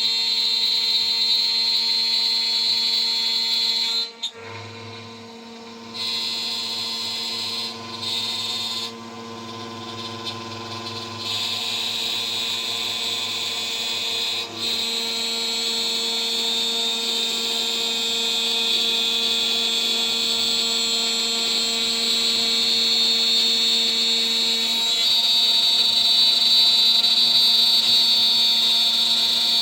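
DIY CNC router's spindle running steadily at high speed while a 3 mm three-flute end mill cuts, with a high cutting hiss. The cutting drops away about four seconds in, leaving the spindle hum and a lower machine hum. It resumes at about eleven seconds and grows louder near the end.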